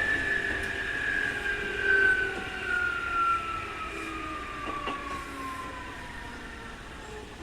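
Keikyu 2000 series electric train's 'jet sound', the strong whine of this abnormal-noise field-chopper car, falling steadily in pitch as the train slows, over rumbling running noise.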